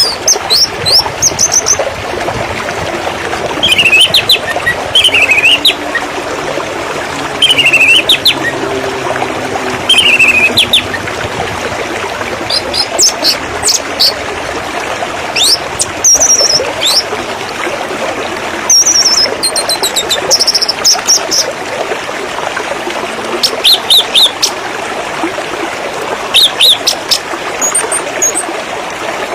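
Songbirds chirping over steadily splashing water. Short falling chirps and quick runs of high notes come every few seconds.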